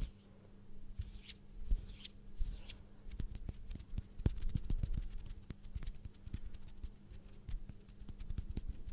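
Close-miked ASMR trigger sounds: many quick, irregular soft clicks and taps with a few brief rustling swishes, over a faint steady hum.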